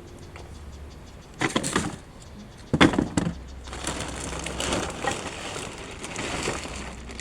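Dry wood or branches cracking and being handled: a few sharp snaps about one and a half seconds in, a louder crack near the three-second mark, then irregular crackling and rustling.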